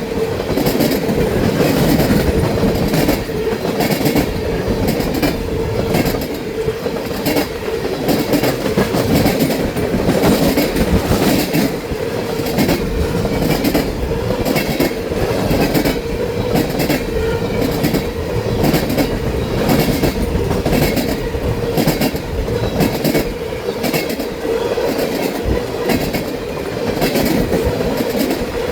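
Ethanol tank-car freight train rolling past at speed, its wheels clicking over the rail joints in a steady repeating rhythm, with a constant hum under the clicks.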